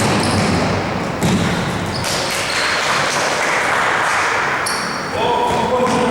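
Basketball game in a gym: the ball bouncing with dull thuds, short high squeaks, and a steady echoing hall noise.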